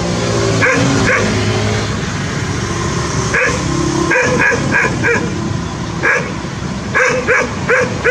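Dog barking in short, sharp barks, about a dozen, several in quick runs of two to four. A steady low hum sits under the first two seconds.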